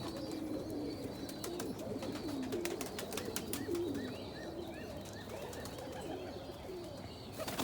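A flock of domestic pigeons cooing in their loft, with scattered sharp clicks and a short run of quick rising high chirps about halfway through.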